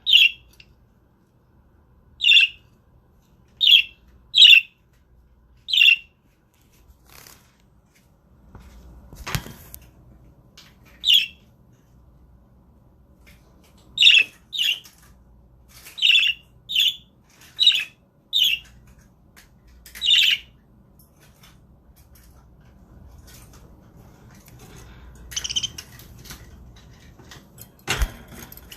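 Pet budgerigars giving short, sharp single chirps, one at a time with gaps of a second or so, in two clusters. There are two brief louder noises, about a third of the way in and near the end.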